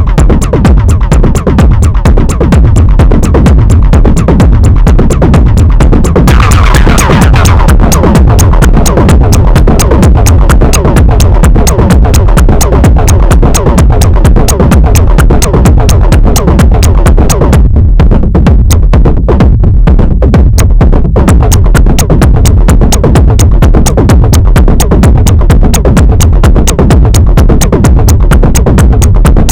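Live analogue techno played on a Moog DFAM drum synthesizer and an Arturia MicroFreak synthesizer: a steady, driving electronic beat with a synth part over it. A brighter sweep swells up about six seconds in, and the high end briefly drops away around eighteen seconds before returning.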